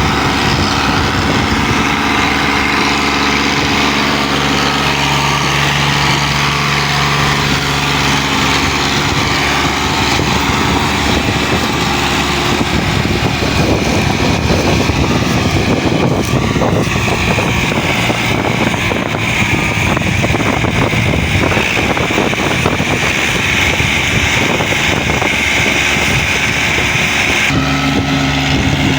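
Diesel tractor engines running hard under heavy load, hauling a loaded sugarcane trolley. The engine note shifts in pitch and turns rougher and noisier midway.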